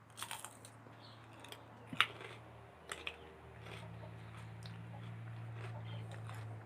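Close-up chewing and biting of grilled meat, with a few sharp crunchy, clicky mouth sounds, the loudest about two seconds in. A low steady hum runs underneath and grows louder about halfway through.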